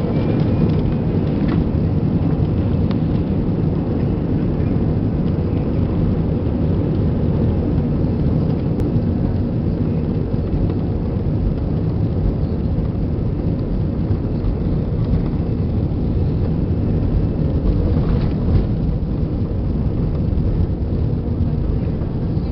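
Airbus A320 cabin noise during takeoff: the jet engines and rushing air make a loud, steady, deep rumble.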